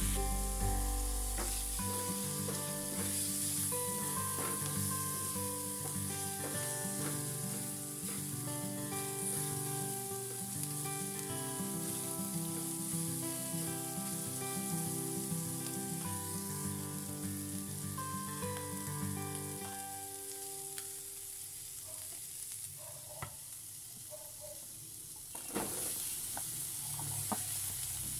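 String beans and pork sizzling as they fry in a metal pan, stirred now and then with a wooden spatula. Background music with melodic notes plays over the first two-thirds and then fades out; about 25 seconds in the sizzling turns suddenly louder, with a few clicks.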